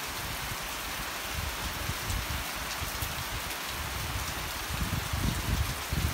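Steady rain falling, an even hiss. Low rumbling thumps come in from about five seconds in.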